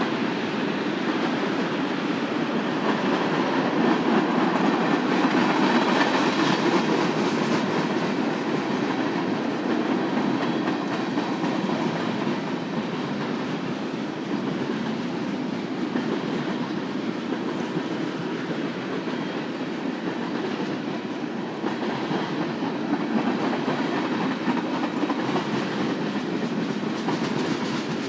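Union Pacific manifest freight train's cars rolling past on the rails, a steady noise of wheels on track, a little louder around five seconds in.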